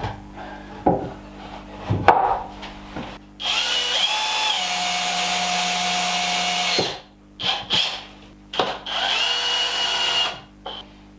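Power drill running in two bursts of a few seconds each, its pitch stepping as it runs, after a few knocks of wood and tools.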